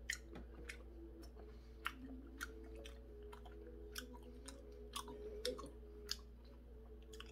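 Close-up chewing of a triangle kimbap, a seaweed-wrapped rice triangle: soft, irregular mouth clicks and smacks at an uneven pace.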